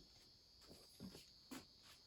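Near silence with a steady faint high hiss and a few faint short knocks about a second apart.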